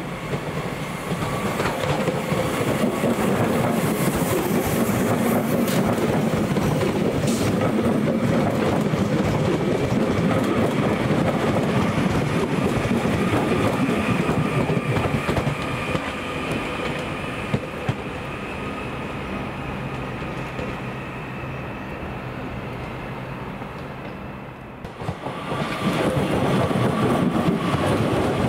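Passenger train moving through a station, a loud steady running rumble with a faint high whine over it. It eases off in the middle, dips sharply about 25 seconds in, then comes back loud.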